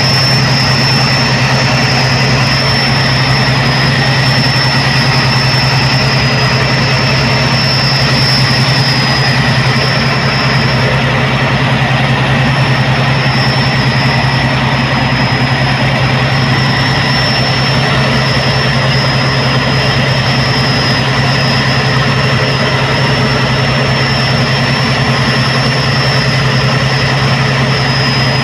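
Tugboat's diesel engines running steadily under towing load, a constant heavy drone with a thin high whine above it.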